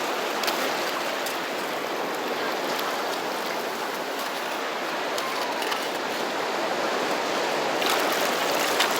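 Steady wash of sea surf over a rocky shoreline, growing a little louder near the end.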